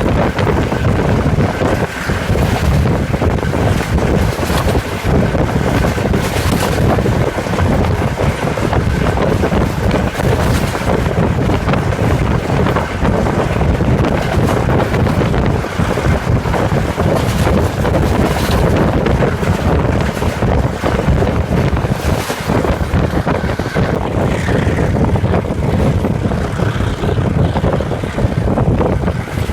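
EMD two-stroke diesel engine of Class M2c locomotive 627 running steadily under load while the train travels. Heavy wind noise buffets the microphone throughout.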